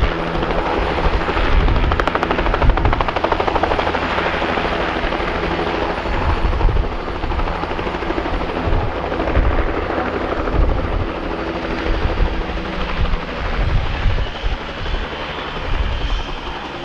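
Helicopter running close by, its rotor blades chopping in a fast, even beat over the steady engine noise.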